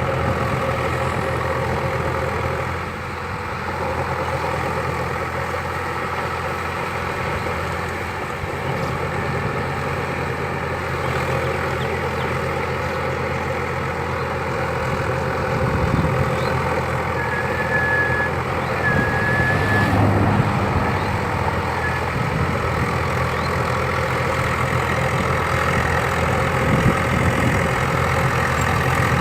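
Swaraj tractor's diesel engine running steadily, a little louder in the second half.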